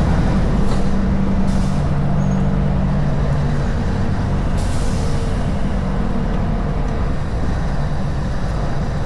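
Scania V8 diesel truck engine running steadily at low revs. Two short hisses of compressed air, like an air brake, come about a second and a half in and again around four and a half seconds in.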